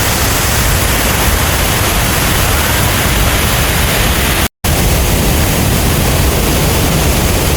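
Loud, steady rushing roar of a large waterfall, an even wash of noise with no tone in it, cut off for a split second about four and a half seconds in.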